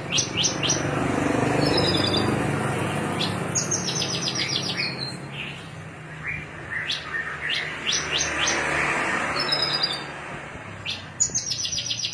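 Javan bush lark (branjangan) singing: sharp high chirps, paired whistled notes and fast trills, with the same phrase coming round again later on.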